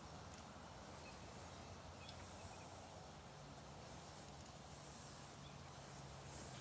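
Near silence: a faint steady hiss with a low hum and a few faint ticks.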